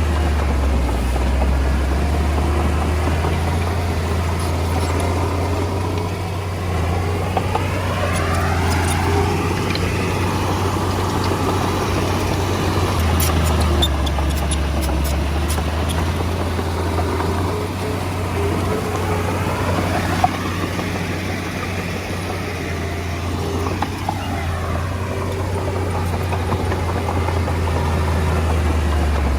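Komatsu D20A bulldozer's diesel engine running steadily while it works, with a few light clicks and clatters around the middle.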